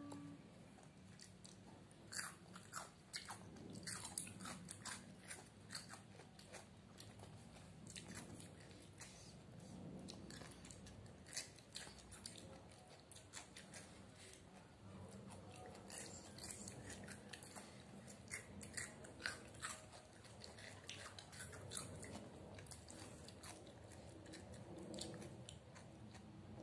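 Crunchy chewing of raw cucumber pieces close to the microphone: crisp crunches come in repeated clusters as bites are taken and chewed.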